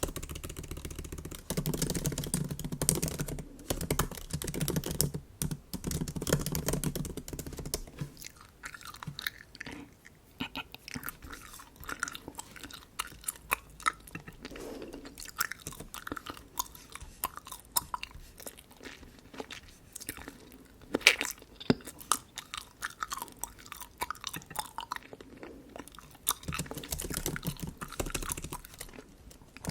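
Bubble gum being chewed close to the microphone, with many small crackling clicks. It is louder through the first eight seconds and again near the end, with one sharp snap about 21 seconds in.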